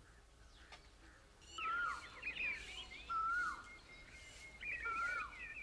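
Birds calling outdoors. After about a second and a half, a short whistled phrase repeats roughly every second and a half, with quicker chirping above it.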